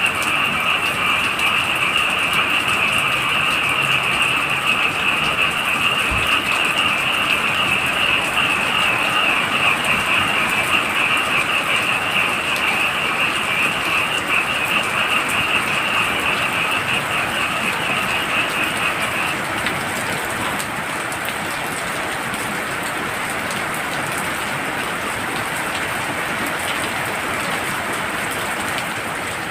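Heavy rain falling steadily, with a dense chorus of frogs calling in a high, rapidly pulsing band that stops about two-thirds of the way through, leaving the rain alone.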